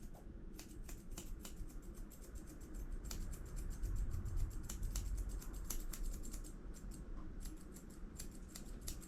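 Grooming scissors snipping a cavoodle puppy's face hair, a quick irregular run of sharp snips, several a second.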